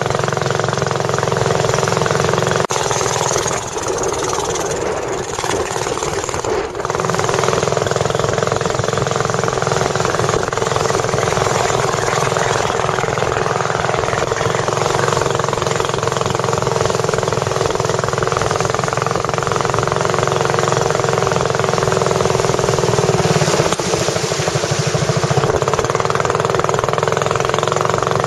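Boat engine running steadily at speed, easing briefly a few seconds in before picking up again.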